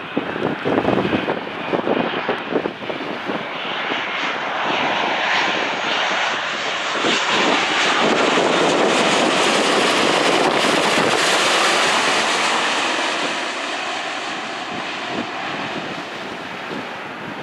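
Jet airliner passing over, its engine noise swelling to a peak about halfway through and then fading. Wind gusts buffet the microphone in the first few seconds.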